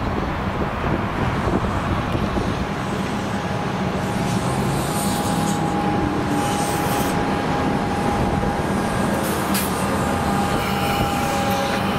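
Comeng electric suburban train running past close by, wheels rumbling on the rails. From about three seconds in, a steady high whine runs over it.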